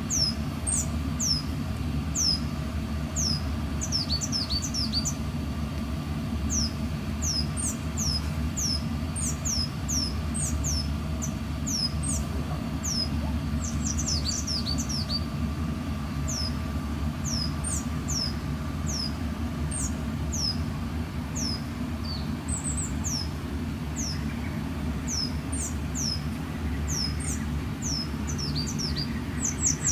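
Small bird calling over and over: short, high-pitched chirps, each falling in pitch, about one a second and in quick clusters at times, over a low steady background rumble.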